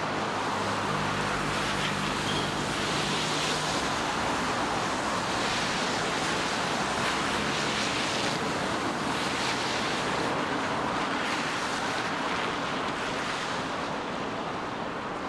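Steady rain hiss on a city street, with a low hum in the first few seconds.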